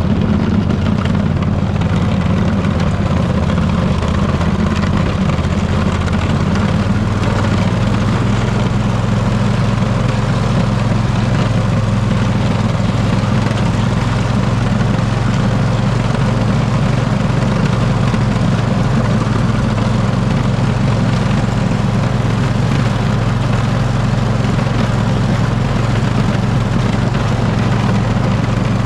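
Poulan riding mower's engine running steadily under load while pushing a snow plow; its engine note changes once about seven seconds in.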